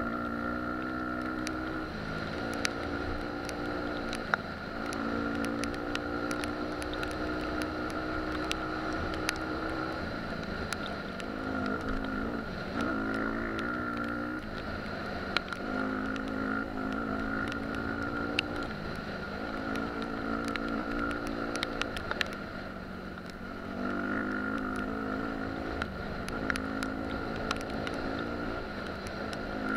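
Dirt bike engine running on the trail, throttle opening and closing so that its pitch climbs, drops and cuts back every few seconds, with scattered sharp clicks and knocks.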